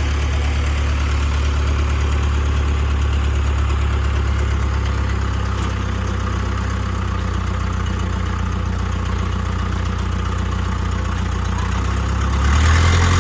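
Heavy vehicle engine running steadily, getting louder about twelve and a half seconds in.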